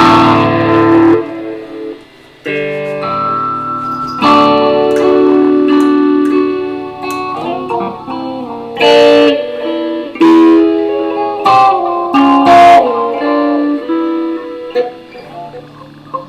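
Electric guitar being played: chords and notes struck every second or two and left to ring out.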